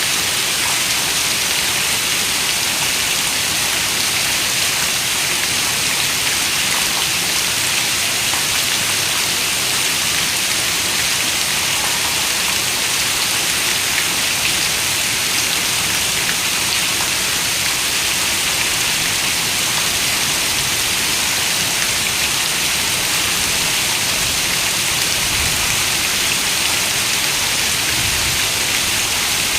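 Steady rain falling: an even, bright hiss of many fine drops that holds constant throughout, with no thunder.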